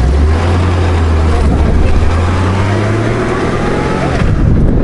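Honda Gold Wing GL1500 flat-six engine pulling at low speed with road and wind noise; its low, steady note lifts a little, then drops away about four seconds in as the rider backs off.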